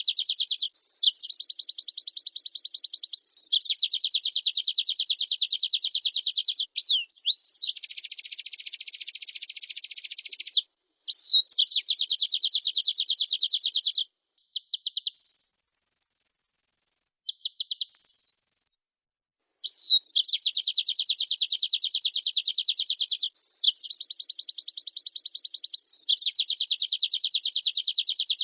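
White-eye (pleci) singing: long, very fast trills of high notes lasting several seconds each, linked by short upward-sliding whistles. About halfway through, two very high, hissing phrases break in between brief pauses before the trilling resumes.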